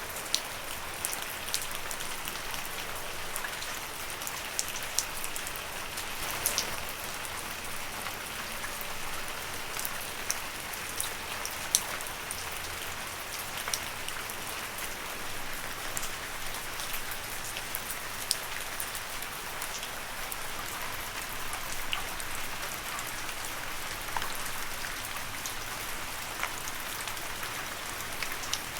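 Steady rain falling on leaves, an even hiss with frequent distinct drops pattering close by.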